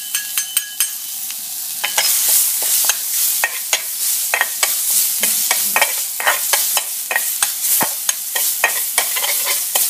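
Chopped chillies frying in hot oil in a pan, sizzling steadily, with a metal spatula scraping and clicking against the pan again and again as they are stirred.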